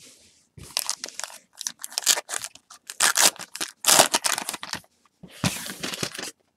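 Paper and card rustling as baseball card packs and cards are handled, tearing and sliding, in a run of short crinkly bursts.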